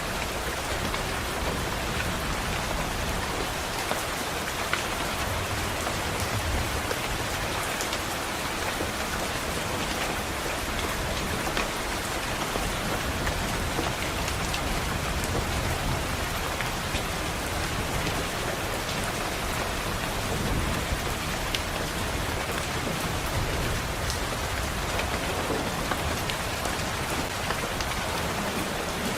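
Steady rain pattering against a window glass, with low rumbles of thunder swelling a few times.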